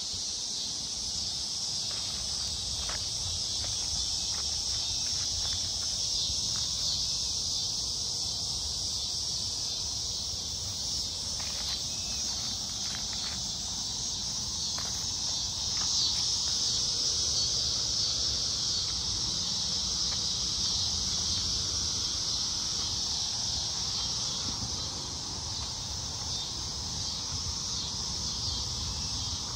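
Steady high-pitched chorus of insects in summer woodland, with a low rumble beneath it and a few faint scattered ticks in the first half.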